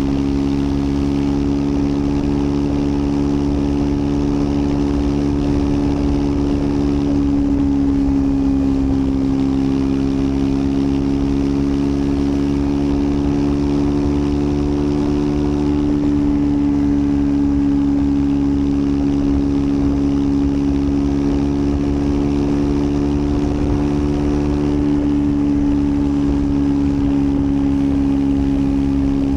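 Triumph Scrambler 400 X's single-cylinder engine running at a steady cruise, its exhaust note holding a nearly constant pitch with a slight rise and fall about halfway through and again near the end.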